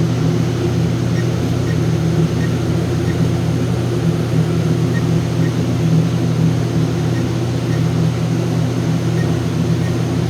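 Steady low mechanical hum with several held tones, with faint short high beeps at irregular intervals, like an alarm keypad's key-press beeps.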